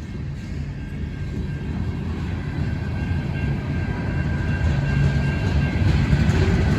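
A train going by, its low rumble growing steadily louder, with a faint steady high tone over it.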